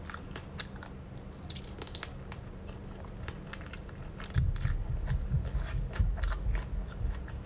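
Close-miked wet chewing and biting of braised chicken feet, with sharp sticky mouth clicks throughout. From about four seconds in the chewing gets louder, with low muffled thuds.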